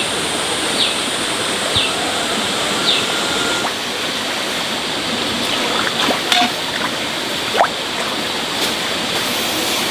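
Steady rush of falling water, with a bird's short, high, falling peeps about once a second over the first few seconds.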